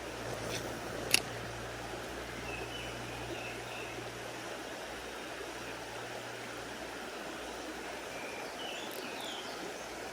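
Mountain stream water running steadily, with one sharp click about a second in and a few faint high chirps twice later on.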